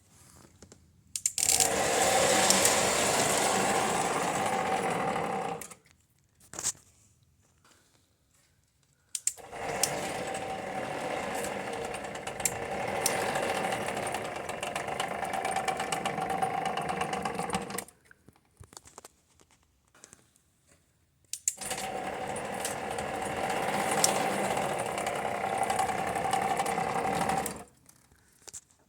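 Scratch-built 1932 Pennsylvania Railroad K4 model locomotive, powered through a center third rail, running on track: a steady mechanical whir of its motor and gearing in three runs of several seconds each, stopping in between, with a few clicks in the pauses.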